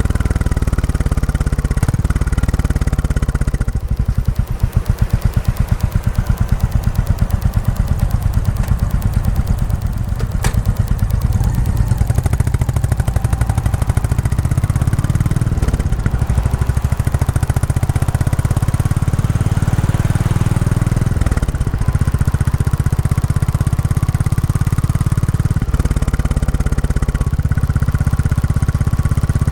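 Royal Enfield Classic 350's single-cylinder engine running through its stock exhaust while being ridden, during its break-in period. Around four seconds in, the engine note drops to slow, separate exhaust pulses. From the middle onward it rises and falls again as the engine speed changes.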